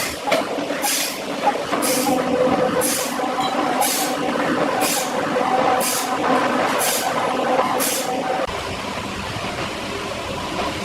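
Powered wood saw running through timber, with a hissing, rasping burst about once a second; the bursts stop about eight seconds in and the machine runs on a little quieter.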